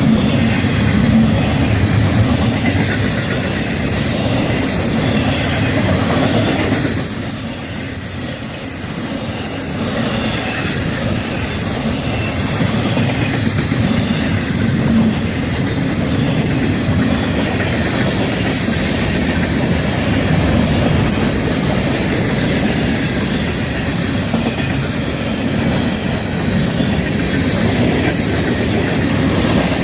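Florida East Coast Railway freight cars rolling past at speed: steady rumbling wheel noise with a clickety-clack over the rail joints. A thin, high wheel squeal sounds from about seven to sixteen seconds in.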